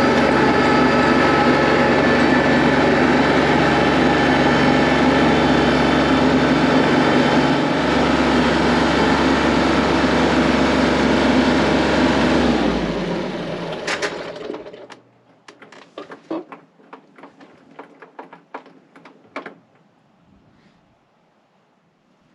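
Kubota L3301 tractor's diesel engine running steadily, then shutting off about 13 seconds in and dying away; afterwards scattered clicks and knocks.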